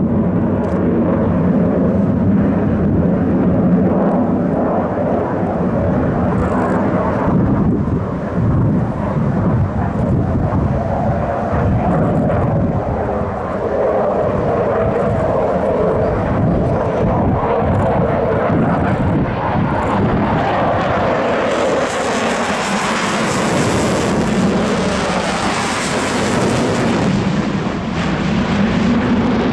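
Airplane engine noise from an aircraft flying a display, loud throughout, with a brighter hissing rush that builds about two thirds of the way in and fades again near the end.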